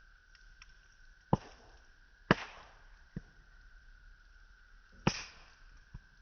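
Burning firewood crackling and popping in a campfire. There are three sharp loud pops, each with a short hissing tail, and two smaller snaps, over a faint steady high tone.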